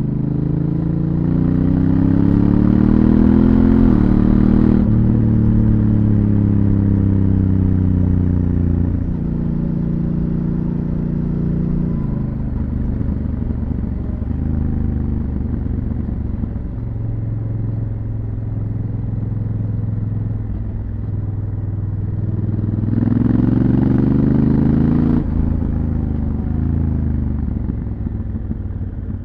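Honda Africa Twin CRF1000L parallel-twin engine through its stock exhaust. The revs rise under acceleration, then drop suddenly about four seconds in, at an automatic DCT gearchange. They fall away and run fairly steadily through the middle. Near the end comes a second rising acceleration with a rush of noise, ending in another sudden drop.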